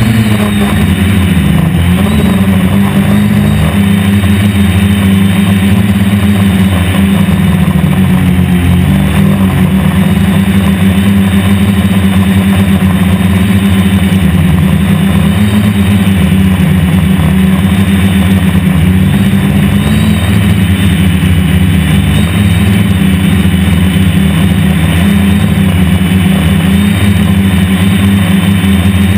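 DJI F450 Flame Wheel quadcopter's electric motors and propellers buzzing in flight, their pitch stepping up and down as the throttle changes.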